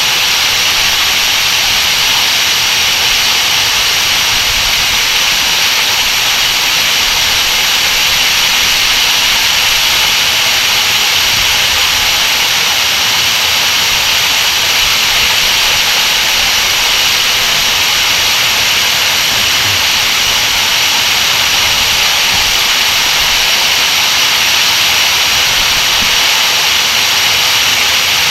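Waterfall: water pouring and splashing in a loud, steady hiss that does not change.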